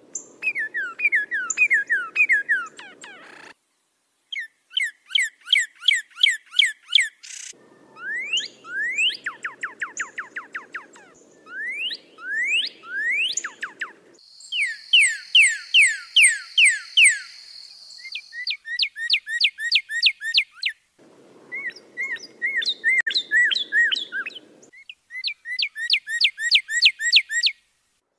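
Songbird song: rapid series of loud whistled chirps and trills, several notes a second, in spliced recordings that switch abruptly to a different song pattern every few seconds, some with a faint background hiss beneath.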